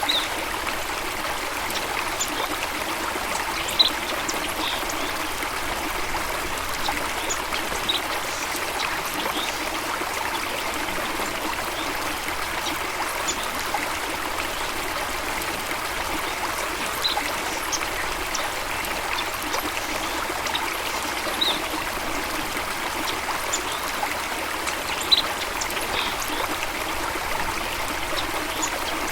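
Steady running water of a stream or cascade. A few brief, high chirps of small birds stand out now and then, the clearest about four seconds in and near the end.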